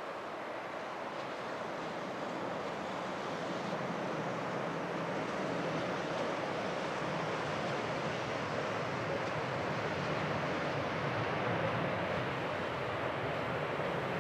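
Jet airliner engines roaring as a plane passes in the rain. The noise swells slowly, peaks near the end, then eases a little.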